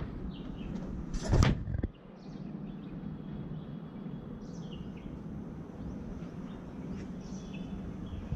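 Outdoor forest ambience with faint, short bird chirps in the second half, and a loud brief rustle or knock about a second in.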